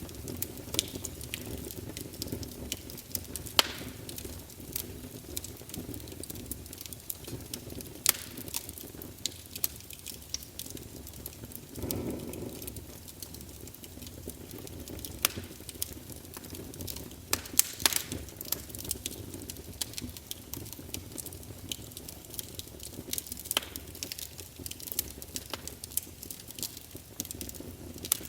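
Wood fire crackling in a fireplace: irregular sharp pops and snaps of the burning logs over a low, steady rumble of flames, which swells briefly about halfway through.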